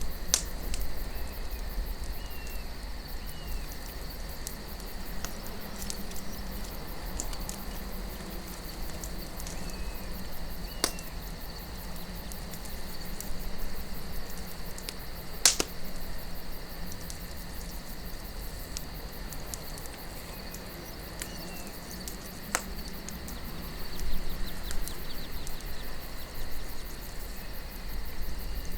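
Wood campfire crackling, with a few sharp pops, the loudest about halfway through, over a low steady wind rumble and a continuous high-pitched chirring.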